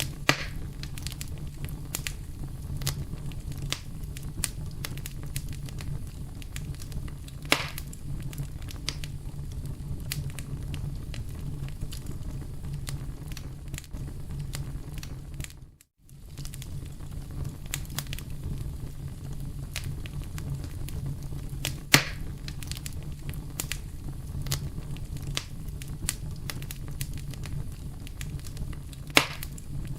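Wood campfire burning: a steady low rumble of flames under constant light crackling, with a few louder, sharper pops from the burning wood. The sound briefly cuts to silence about halfway through, then comes back.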